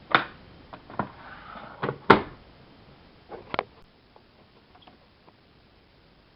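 A string of sharp knocks and clicks from the washing machine being handled: about five strong knocks in the first four seconds, the loudest about two seconds in, then a few faint ticks.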